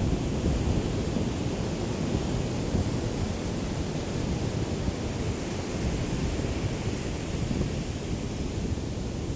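Small sea waves lapping on the shore, heard as a steady wash of surf under a low, rough rumble of wind on the microphone.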